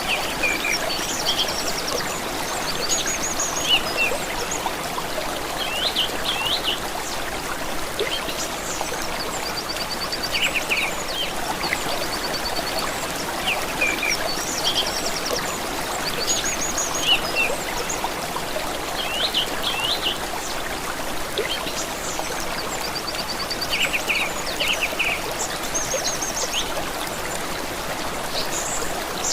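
A stream trickling steadily, with songbirds chirping and trilling over it every few seconds in short, high phrases.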